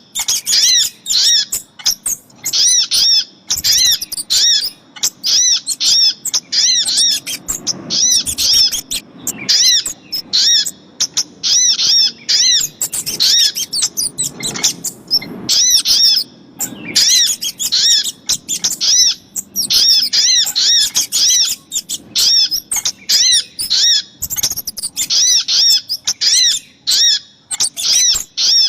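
Small birds calling, the sogok ontong and kemade calls of a bird-lure recording: a rapid, unbroken run of high, arched chirps with only brief breaks.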